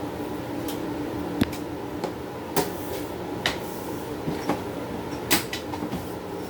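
Steady hum from a small guitar amplifier, broken by several sharp clicks and knocks at irregular intervals.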